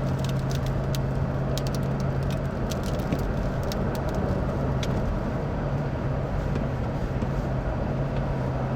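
Car interior noise while driving in strong wind: a steady low drone of engine and road with wind rush. In the first few seconds there are scattered sharp ticks.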